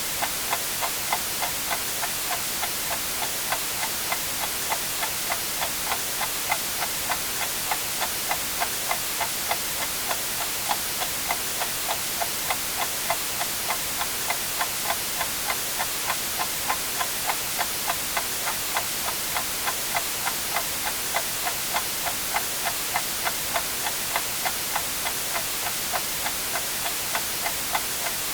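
Clock ticking at an even pace, about two ticks a second, over a steady white-noise hiss.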